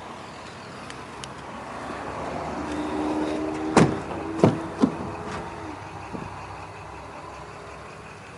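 Inside the cab of a 2006 Dodge Ram 3500 Mega Cab: a steady low hum, a few seconds of even whirring tone in the middle, and three sharp clicks in quick succession, the sound of the cab's fittings or a power mechanism being worked.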